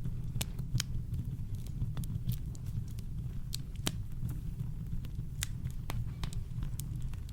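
Campfire crackling: irregular sharp pops and snaps of burning wood over a steady deep rumble of brown noise.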